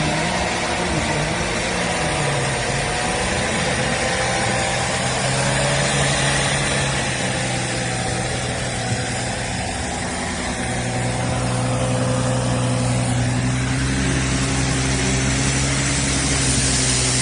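A motor vehicle's engine running under steady road noise. Its pitch shifts up and down for the first few seconds, then holds steady.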